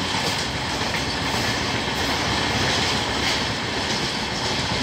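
Steady running noise of a moving passenger train's wheels on the rails, heard from aboard, as a second passenger train passes close by in the opposite direction on the next track.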